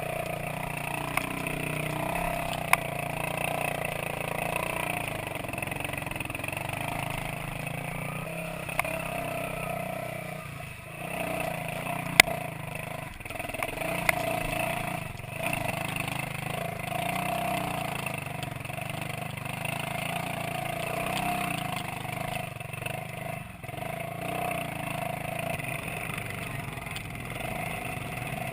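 Minsk 125cc two-stroke motorcycle running steadily while riding, with a few sharp knocks, the loudest about twelve seconds in.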